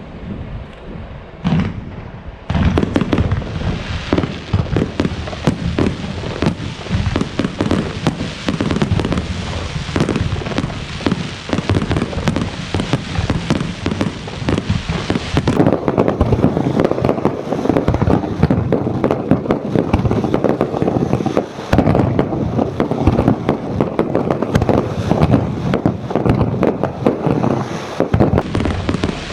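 Fireworks display: a single bang, then from about two seconds in a dense, continuous barrage of rapid bangs and crackling shells.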